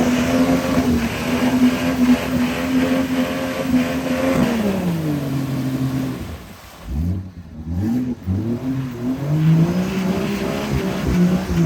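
Mud-racing truck engine held at high revs, dropping off about five seconds in, then blipped up several times in short bursts before being held high again.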